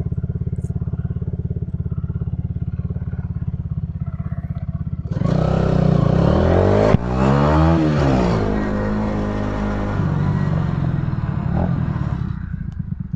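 Honda motorcycle engine idling with an even pulse, then opened up about five seconds in, its pitch sweeping up and down as it revs. It keeps running at higher revs and eases off near the end, with a single sharp click partway through.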